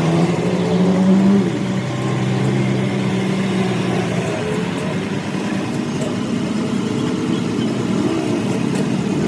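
An engine running steadily with a low hum, the hum dropping away about four and a half seconds in, over constant workshop noise and faint voices.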